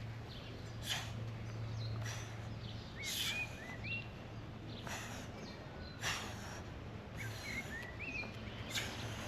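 Small birds chirping with short rising and falling calls, over steady background noise and a low hum, with a few brief sharper sounds scattered through.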